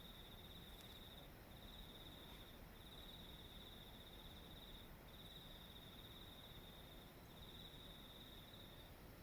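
A night insect, cricket-like, trilling high and steady in long phrases of about one and a half to two seconds, each broken by a brief pause, over faint low background noise.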